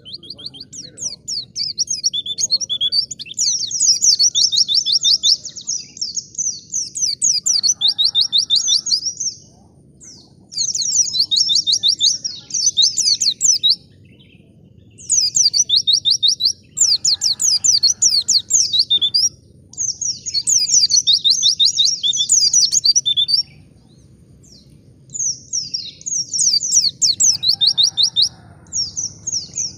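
White-eye (pleci) singing a fast, chattering song of rapid high notes in phrases a few seconds long, broken by short pauses.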